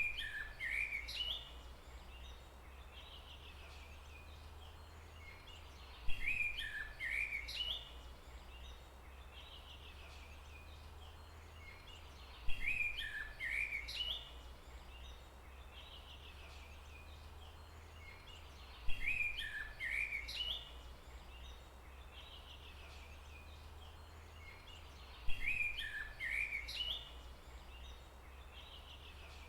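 Bird calls over a steady low rumble. The same two-second burst of chirps and whistles repeats five times, about every six seconds.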